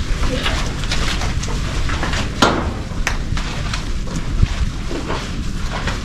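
Wind buffeting the microphone in a steady low rumble, with scattered knocks and rustles, the loudest about two and a half seconds in.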